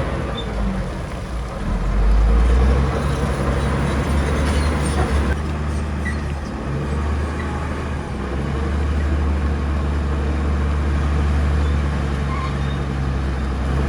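Diesel engines of heavy earthmoving machinery running with a deep, steady rumble that grows louder about two seconds in.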